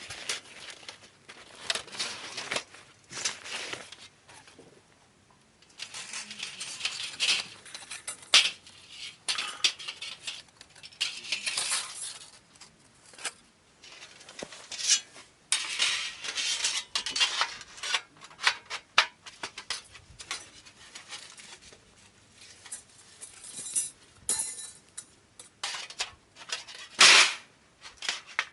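Camping gear being handled: rustling, with scattered sharp clicks, knocks and clinks of metal, the loudest knock near the end.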